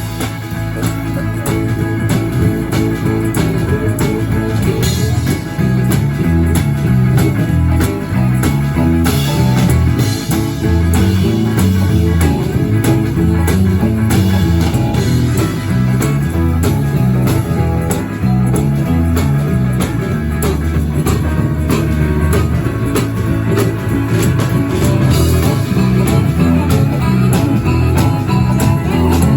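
Blues band playing live: guitar over drums, with a low line of notes stepping up and down in a steady repeating pattern.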